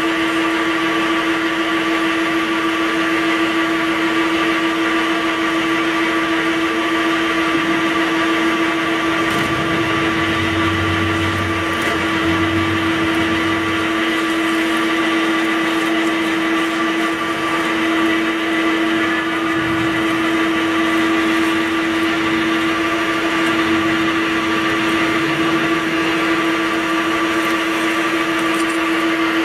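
CNC vertical drilling machine running, its motors giving a steady whine made of several constant tones. A lower hum comes in twice, briefly, about ten and twelve seconds in.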